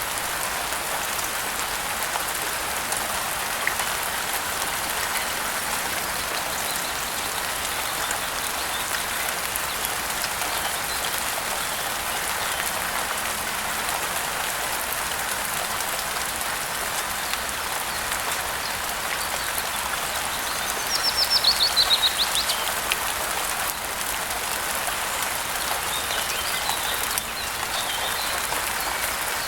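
Steady rain falling. About two-thirds of the way through, a bird gives a quick trill that falls in pitch, the loudest sound here. A few faint chirps follow near the end.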